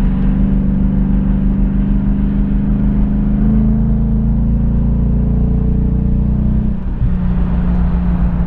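2015 Ford Mustang GT's 5.0-litre V8 running loud and steady at highway speed through an MBRP race cat-back exhaust, its pitch creeping up slightly. About seven seconds in the note briefly dips and cuts up, then settles again at a steady pitch.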